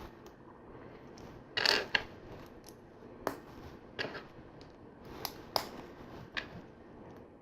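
LEGO bricks and plates being handled and pressed together: a series of separate plastic clicks and snaps, with a louder rattle of pieces just under two seconds in.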